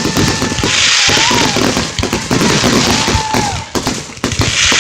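Fireworks display: a rapid, unbroken string of bangs and crackles. About a second in and again near the end there are bursts of dense high crackling hiss, with a few short rising-and-falling whistle-like tones among them.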